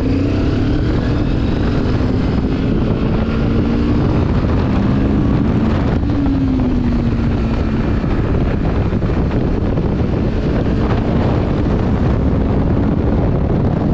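Benelli TRK 702's parallel-twin engine running under way, its pitch rising and falling through the bends, under heavy wind rumble on the microphone.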